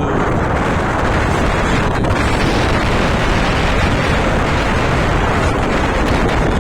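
Strong wind buffeting the microphone in a snowstorm: a loud, steady rumbling roar with no breaks.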